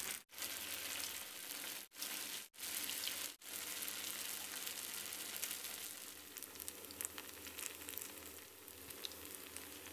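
Chinese chive cakes frying in hot vegetable oil in a pan: a steady sizzle with small pops and crackles. It cuts out briefly four times in the first few seconds.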